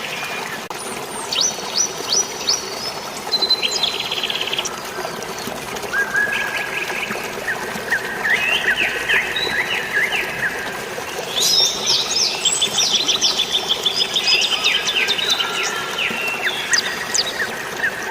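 Several songbirds chirping and trilling in quick series, busiest in the second half, over a steady hiss of drizzling rain and running water.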